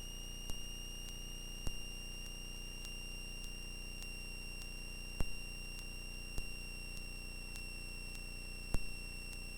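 Steady high-pitched electrical whine over a low hum on the aircraft's intercom and radio audio feed, with a few faint clicks scattered through.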